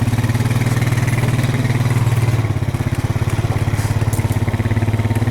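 A small vehicle engine running steadily at low revs with an even, fast pulsing throb.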